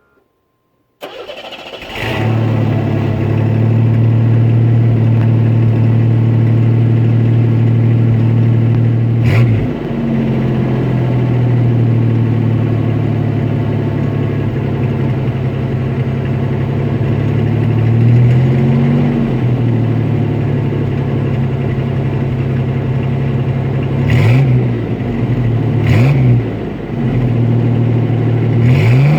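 A 1987 Chevrolet S10's 2.8-litre V6 breathing through a Thrush aftermarket muffler: it starts about a second in and settles into a steady idle. It is revved briefly about a third of the way through, again near the middle, and in several quick blips near the end.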